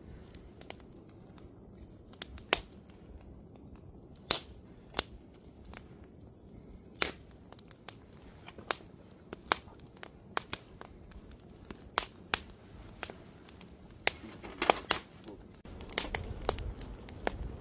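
Wood campfire crackling: irregular sharp pops and snaps, one or two a second with a few louder cracks. Near the end a low rushing sound comes in under the pops.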